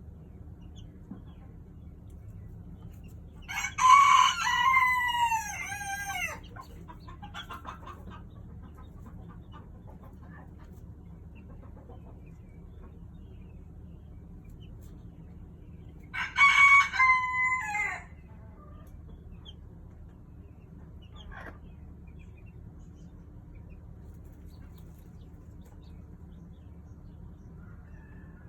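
A young rooster crowing twice: a long crow about four seconds in and a shorter one a little past halfway.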